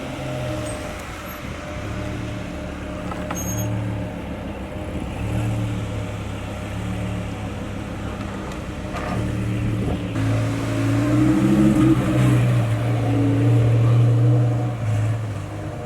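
Car engine running at low revs with a low hum that shifts in pitch, growing louder from about eleven seconds in as it comes closer.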